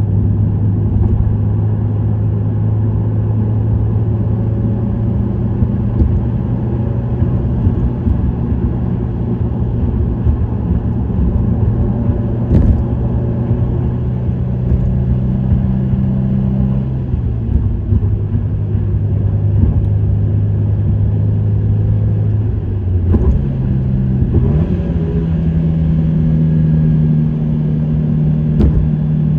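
Subaru WRX STI's turbocharged 2.0-litre flat-four engine and STI Performance muffler, running steadily at cruising revs with road noise. A little over three-quarters through, the note breaks briefly, then rises to a higher, steady pitch as revs go up.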